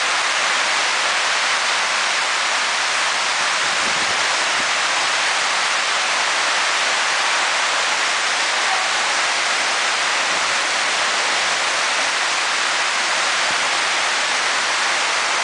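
Heavy rain pouring down on wet pavement, a steady unbroken hiss.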